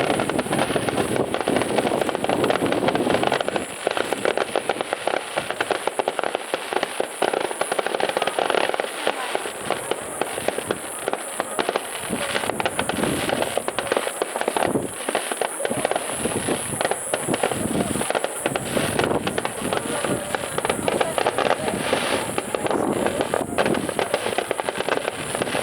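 Aerial fireworks in a rapid-fire starmine barrage: a dense, continuous crackle of many small bursts packed closely together.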